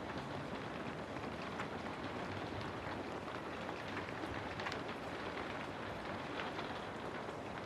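Steady rain falling on a house: a continuous even hiss with individual drops ticking here and there.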